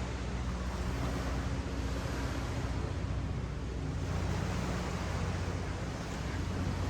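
Ocean waves washing up the beach as a steady rush of surf, with wind on the microphone and a faint low hum underneath.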